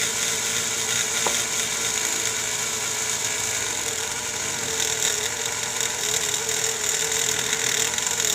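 Dremel rotary tool running with a cotton-covered felt buffing tip, polishing the metal of an engine's cooling fins. It gives a steady high whine that wavers slightly in pitch as the tip works against the metal.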